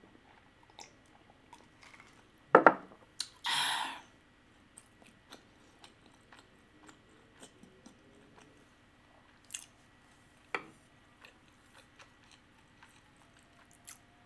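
Close-miked chewing of a mouthful of salmon sushi roll, soft wet clicks and squishes. About two and a half seconds in comes a short loud knock, then a half-second breathy exhale.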